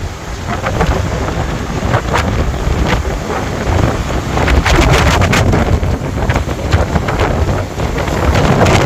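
Strong, gusty cyclone wind buffeting the microphone, with a constant low rumble and irregular surges.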